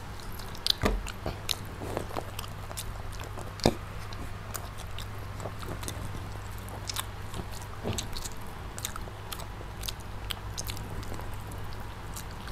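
Mouth sounds of children eating fried chicken: chewing and biting with scattered small clicks and smacks and a few louder crunches, over a steady low hum.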